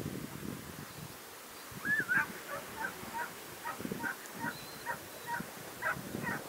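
A bird calling: a brief gliding note, then a quick series of short, sharp calls about three a second, over low wind rumble on the microphone.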